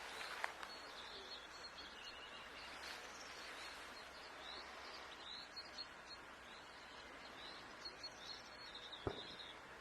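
European goldfinch twittering, a run of short high chirps over a steady background hiss, with a sharp click about half a second in and a low thump near the end.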